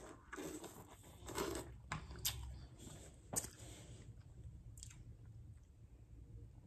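Close-up chewing and biting of yellow watermelon and its crisp rind, with several short wet crunches in the first five seconds.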